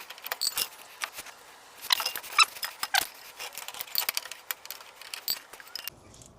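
Rapid, irregular light clicks, taps and scrapes, many per second, like small hard objects being handled.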